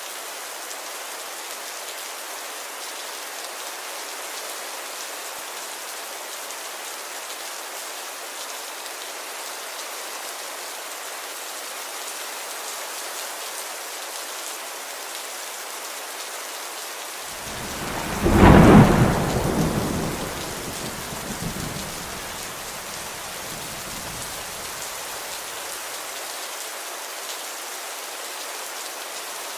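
Steady rain falling, and about eighteen seconds in a single clap of thunder cracks loudly, then rumbles away over several seconds.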